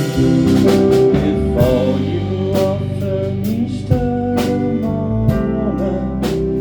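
Live rock band playing a song: a sung vocal line over guitar, bass and sustained chords, with regular drum hits.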